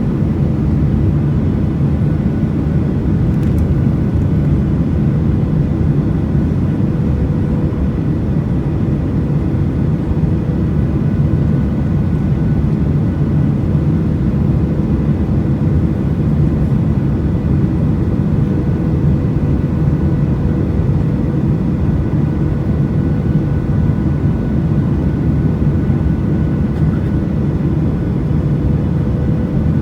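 Boeing 737 cabin noise heard from a window seat by the wing: a steady low rumble of the jet engines and rushing air, with a few faint steady whining tones over it.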